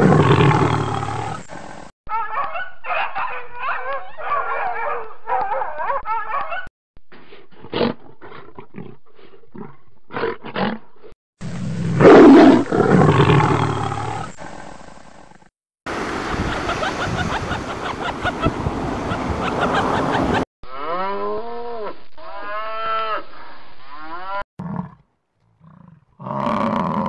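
A run of different wild-animal calls cut together. A loud, deep roar opens it and a second one comes about eleven seconds in. Between and after them are bouts of chattering calls, a noisy stretch, and a string of repeated calls that rise and fall in pitch.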